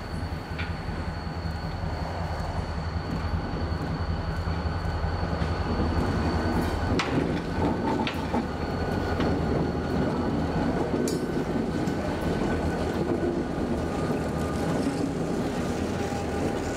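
Two EMD GP35-3 diesel locomotives approach slowly and pass close by, their engines a steady low drone that grows louder over the first few seconds. Then the empty covered hopper cars roll past, their wheels rumbling on the rails, with a few sharp clanks.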